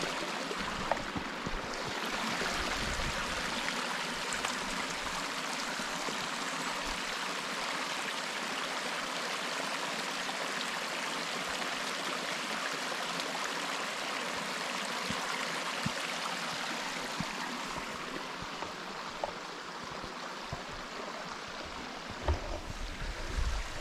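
Small creek flowing at a trail crossing: a steady rush of running water that eases a little near the end.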